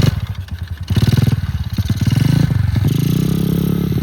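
Pit bike engine revving in short bursts, then holding a steadier, slowly rising note from about three seconds in.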